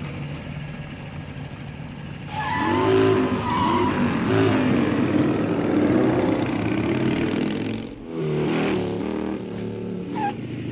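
Vehicle engines running hard in a chase: a low rumble, then loud revving from about two seconds in, with the pitch rising and falling. The sound dips briefly around eight seconds in, the engines pick up again, and a short tyre squeal comes near the end.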